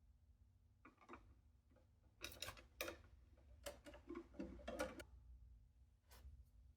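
Faint, scattered clicks and taps from a screwdriver and wire being worked while a ground screw is tightened in a metal electrical box, in small clusters with short gaps between.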